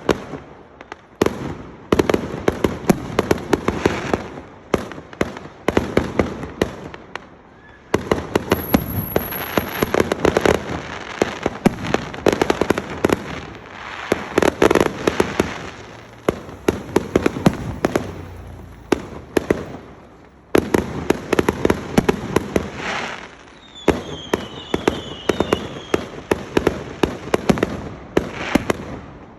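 Fireworks going off in dense, rapid crackling volleys of bangs, a fresh salvo starting every few seconds. A few short falling whistles come about three-quarters of the way through.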